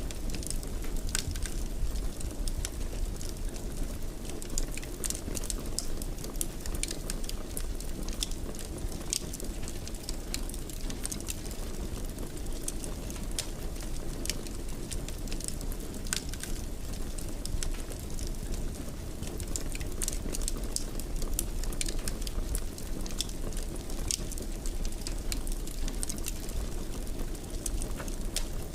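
Wood fire burning in a fireplace, crackling and popping at irregular moments over a steady low rumble of the flames.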